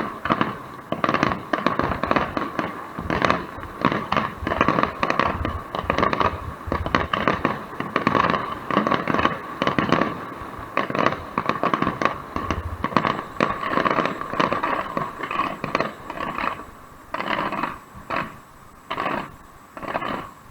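Fireworks display: a rapid, dense barrage of bangs and crackles, thinning to separate bangs in the last few seconds.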